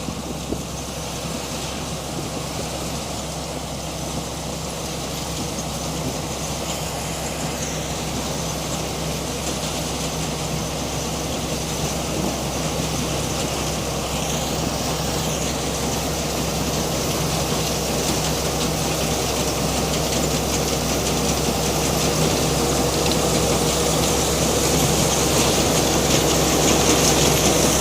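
Combine harvester's Isuzu 6M61 six-cylinder diesel engine running steadily with the threshing machinery, growing gradually louder.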